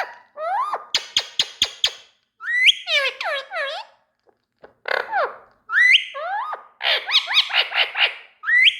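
Indian ringneck parrot calling in several bursts: each opens with a rising whistle, followed by rapid sharp pulsed notes or runs of falling chirps, with short pauses between bursts.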